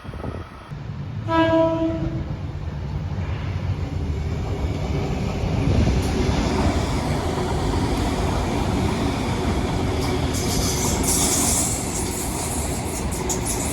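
A Sydney train's horn gives one short blast about a second in, followed by the steady rumble of the train running on the track. A higher hiss joins the rumble about ten seconds in.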